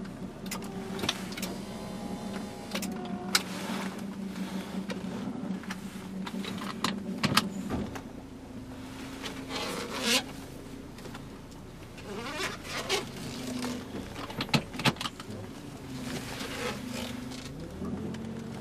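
Clicks, knocks and rattles of fittings being handled in a Volvo XC90's cargo area, over a steady low hum that steps up slightly in pitch about halfway through.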